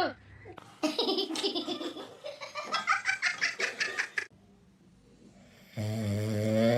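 A person laughing in quick rhythmic bursts for about three seconds, then a long held low-pitched sound near the end.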